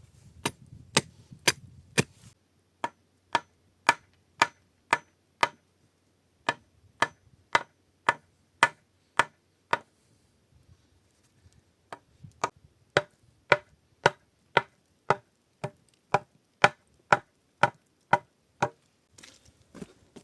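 A long series of sharp, regular knocks, about two a second, broken by short pauses and a longer pause around the middle.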